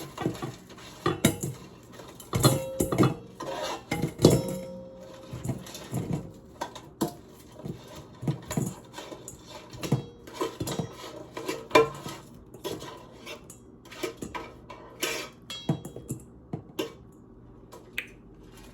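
Utensil clinking and knocking against a pan and bowl as fried chicken pieces are moved into the bowl, in irregular knocks throughout. A couple of the clinks in the first few seconds ring on briefly.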